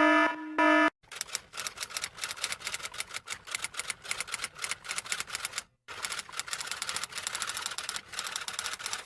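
A pulsing electronic beep tone stops about a second in, followed by fast, continuous typing keystrokes with a brief pause about halfway through.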